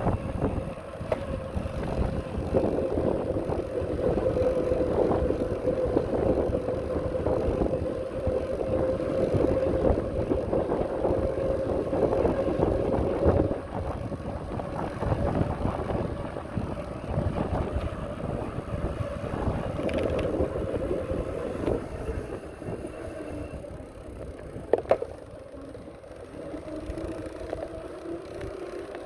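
Riding a bicycle along a path: a steady rumble of wheels and wind on the microphone, with a steady hum underneath. About 25 seconds in there are two sharp clicks.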